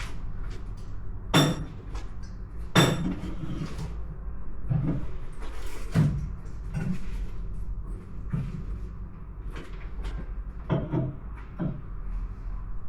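Irregular knocks and clunks, about nine in all, of things being handled or doors and drawers being shut, over a steady low hum.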